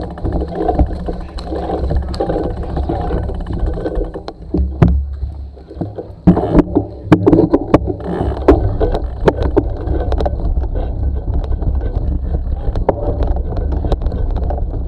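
Wind rumbling over the microphone of a camera on a moving bicycle, with rattling knocks from the bike going over bumps. The knocks are thickest from about four to ten seconds in.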